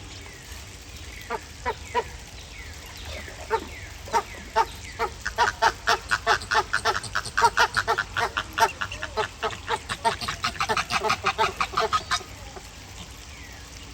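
Chilean flamingos honking: a few scattered short calls, then a rapid, dense run of many short goose-like honks from about five seconds in, stopping shortly before the end.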